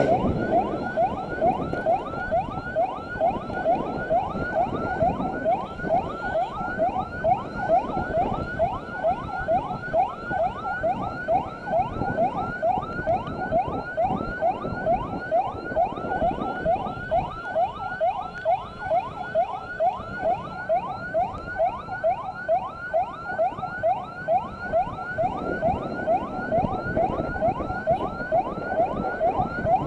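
Electronic emergency siren sounding a fast yelp: a rising sweep repeated evenly about two to three times a second, with steady wind and road noise under it.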